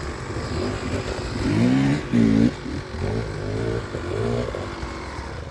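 Dirt bike engine revving in bursts as the rider works the throttle on a hillclimb, the pitch rising and falling several times and loudest about two seconds in.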